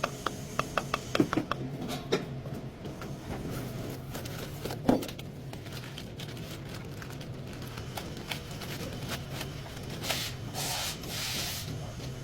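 Clicks and scraping from hand-tool work: a quick run of sharp clicks, one louder knock about five seconds in, and a few short hisses near the end, over a steady low hum.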